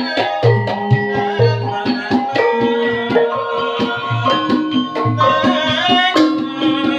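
Javanese gamelan-style ensemble music: hand-drum strokes beating steadily under ringing, held notes from pitched metal percussion that step from one note to the next.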